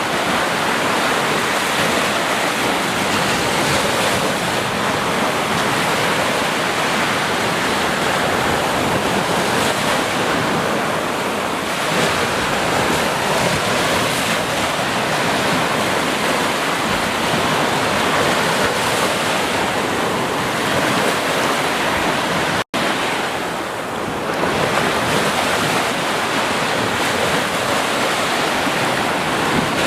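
Ocean surf washing steadily onto a beach, a dense continuous rush of breaking waves. About three quarters of the way through the sound cuts out for a split second and resumes, as at an edit splice.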